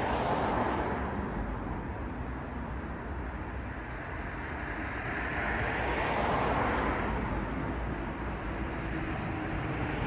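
Street traffic: vehicles passing one after another over a steady low rumble, their noise swelling about half a second in and again around six seconds.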